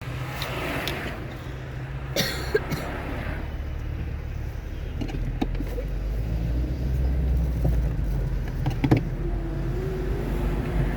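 Car driving on a wet road, a steady low road-and-engine rumble with a hiss over it and scattered sharp clicks and taps, the loudest about two seconds in and near nine seconds.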